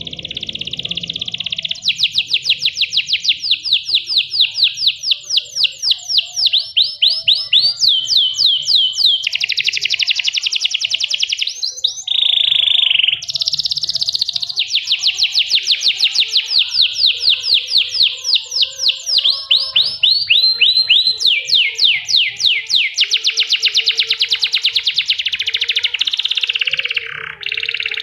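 Domestic canary singing a long unbroken song of rapid trills, each a fast series of repeated sweeping notes, switching to a new trill every second or two.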